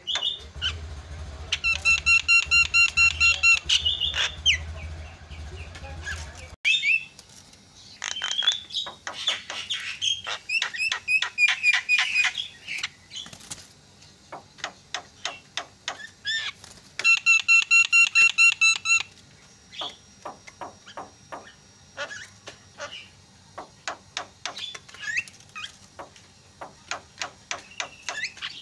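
Javan myna (jalak kebo) calling noisily: rapid runs of ringing, repeated notes broken up by short chirps, clicks and whistles. A low buzzing hum sits under the first six seconds or so and cuts off suddenly.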